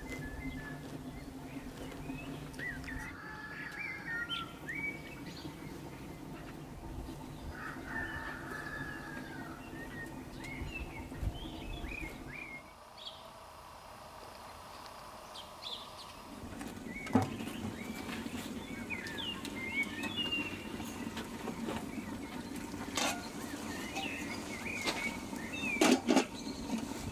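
Small birds chirping and singing, many short high calls throughout. Near the end comes a sharp metallic clink as an aluminium lid is set on a pot.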